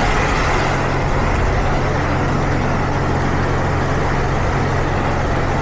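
Self-serve car wash high-pressure wand spraying soapy water in a steady, loud hiss, over a steady low hum.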